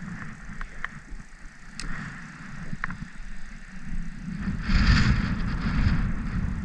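Wind buffeting the microphone as a low, uneven rumble that grows stronger about four and a half seconds in, with a few light clicks before it.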